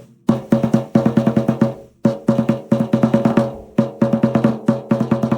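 A drum struck rapidly and repeatedly, about seven hits a second, each hit leaving a ringing pitched tone. The runs of hits break off briefly about two seconds in and again near four seconds.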